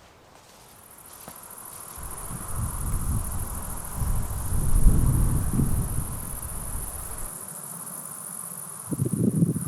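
Steady high-pitched chirring of crickets or other insects, with a loud low rumbling on the microphone swelling from about two seconds in and dying away about seven seconds in.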